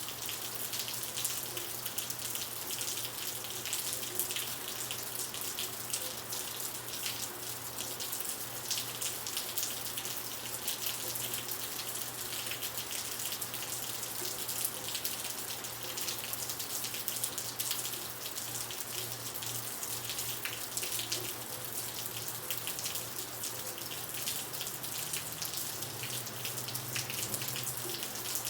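Steady rain falling, a dense even patter of drops with a faint low hum underneath.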